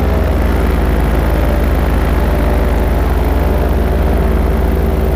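An engine running steadily: a continuous low hum with a row of steady overtones and no change in speed.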